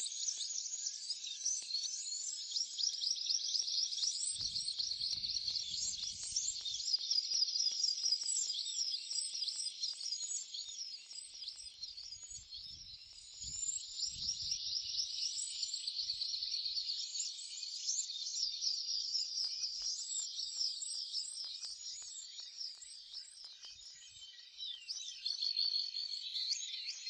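A chorus of small garden birds at feeders: rapid, overlapping high chirps and calls, with no let-up.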